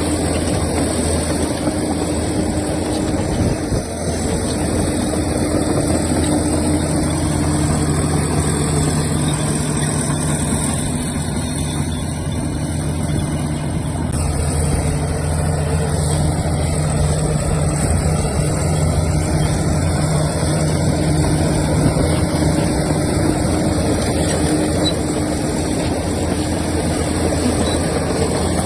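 Heavy diesel engines of a bulldozer and dump trucks running steadily, with an extra engine note joining in about seven seconds in and dropping away around twenty seconds.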